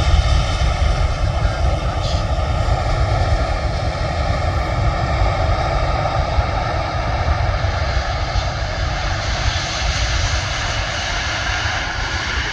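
Jet airliner's engines passing low on approach to land, a heavy low rumble under a steady high whine of several tones, easing slightly near the end.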